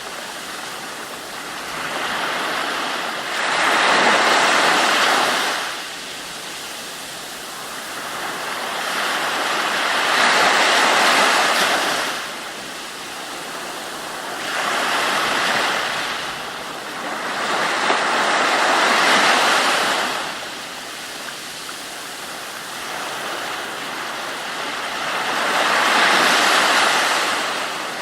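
Ocean waves breaking and washing in. Each surge of rushing water swells up and fades away, with a new one every four to six seconds.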